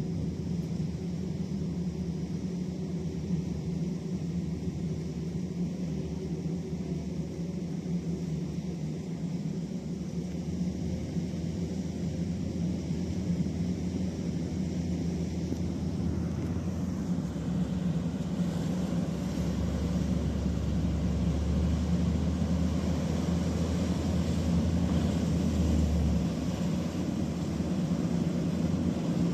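Boat engine running steadily with a low hum, growing somewhat louder in the second half.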